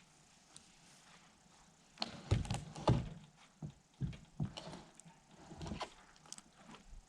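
A run of irregular knocks and thumps, with the loudest cluster about two to three seconds in and scattered lighter knocks after.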